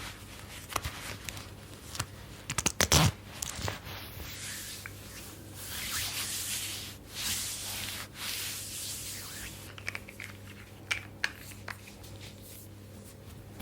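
Close-miked hands rubbing and sliding over oiled skin and fabric. A cluster of sharp crackles comes about three seconds in, then longer soft swishing strokes through the middle and a few light ticks near the end, over a faint steady low hum.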